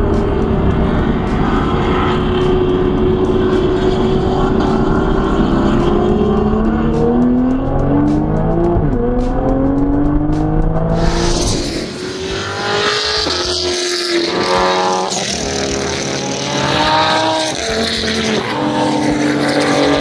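Car engine heard from inside the cabin during a track lap, its note holding steady and then rising under acceleration, with a shift about nine seconds in. A little past halfway it gives way to cars running on the track heard from trackside, their engine notes rising again and again as they accelerate.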